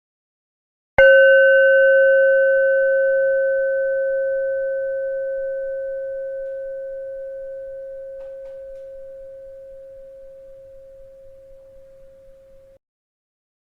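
A bell struck once about a second in, ringing with a clear low tone and several higher overtones that fade slowly over about twelve seconds before cutting off abruptly.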